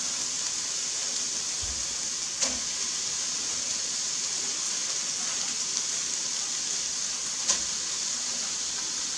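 Venison burgers and onions sizzling steadily in a frying pan on a gas stove, with two short sharp clicks about two and a half seconds in and again near the end.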